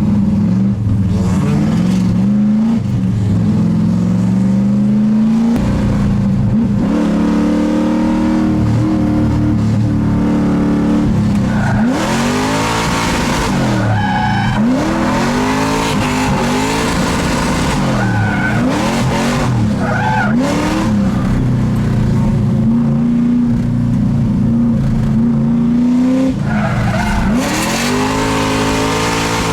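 Drift car engine revving up and down hard through the throttle while its tires squeal and skid in long slides; the tire squeal is loudest around the middle and again near the end.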